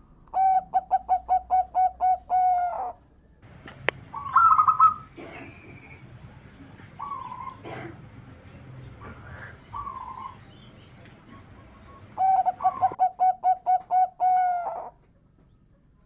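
Zebra dove (perkutut) singing its cooing song twice, each phrase a quick run of about nine short notes ending in a drawn-out note. Between the two phrases come shorter bird calls and one sharp click.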